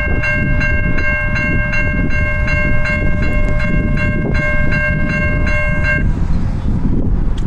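A bell ringing steadily at about three strokes a second, stopping about six seconds in, over the heavy rumble of a passing Amtrak train led by a Siemens ALC-42 locomotive.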